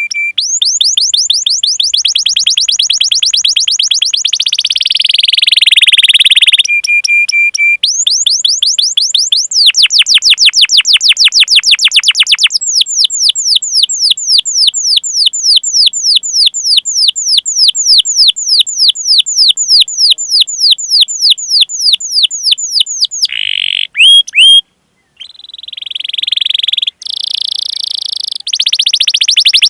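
Canary singing a long rolling song: runs of rapid, evenly repeated falling notes at several speeds, some very fast and some slower, with a few short steady whistles in between. The song breaks off briefly about 24 seconds in, then carries on.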